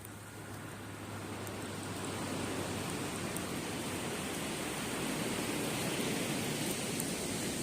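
Surf washing onto a beach, the rush of a wave building over several seconds and easing near the end, with a few faint crackles from a wood campfire.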